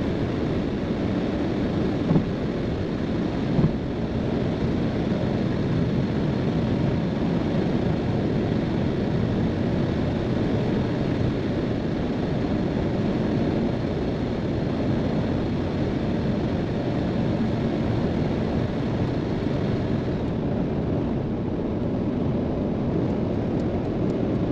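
Steady road and engine noise inside a car cruising at motorway speed, with two short thumps about two and three and a half seconds in.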